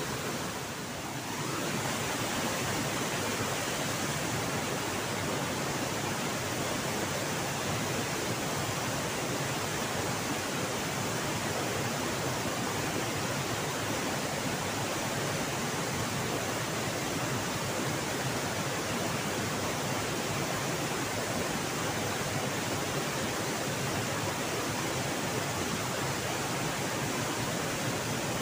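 Steady rush of a river waterfall: an unbroken, even noise of falling water.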